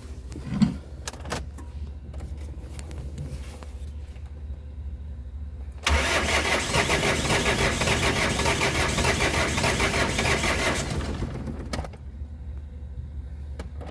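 Diesel engine being cranked by its starter for about five seconds, beginning about six seconds in and then stopping, over a steady low hum. The hard start comes from failed glow plugs, only one of four working.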